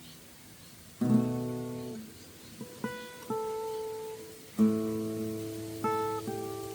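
Steel-string acoustic guitar playing a blues phrase: a chord struck about a second in and left to ring, then single picked notes with one sliding up in pitch, then another ringing chord about four and a half seconds in, followed by a few short notes.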